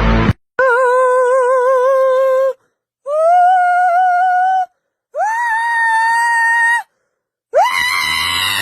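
Four long, held vocal notes, each a little higher than the last, each cut off abruptly by silence. The first has a wavering vibrato, and the later ones swoop up at their start.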